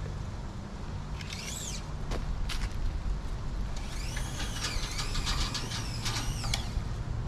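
A steady low engine hum runs underneath high whistled bird calls: a short call about a second in, and a longer series of rising and falling notes from about four seconds in. There are two faint clicks between them.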